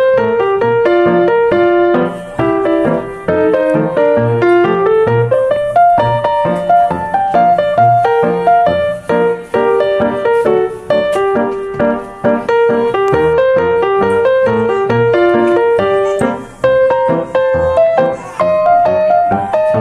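Background piano music: a flowing melody over a bass line, played steadily.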